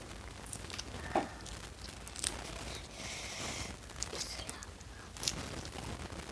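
Close-miked eating sounds of a rice meal: scattered small clicks and mouth noises, with a short crunchy rustle about three seconds in.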